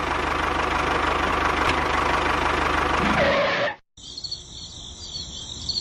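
Small engine of a DIY mini tractor running steadily with a fast low pulsing beat, which stops abruptly near the end. A quieter, high-pitched chirping sound follows.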